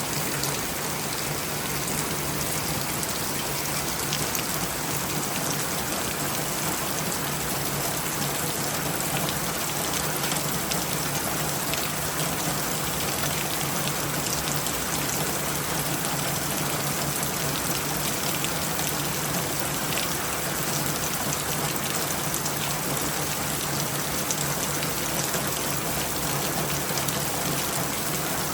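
Steady rain falling, a constant hiss with fine drop patter.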